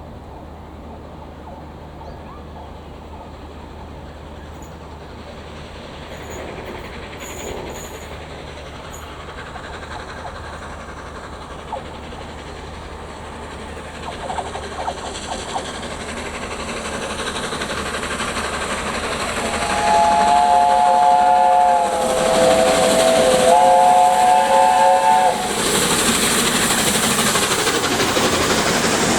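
Steam locomotive 60163 Tornado, a Peppercorn A1 Pacific, approaching and running through at speed, its noise growing steadily. About two-thirds of the way through it sounds its whistle in two long blasts, several notes at once. The train then rushes past with wheel clatter.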